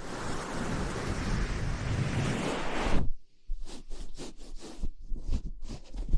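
Close-miked ASMR rustling and rubbing: about three seconds of continuous friction noise, then a short gap and a run of quick brushing or scratching strokes, several a second.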